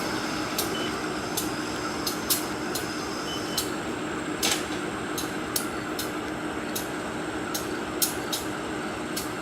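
Diesel freight train running with a steady engine hum, broken by irregular sharp clicks and clanks, roughly one or two a second.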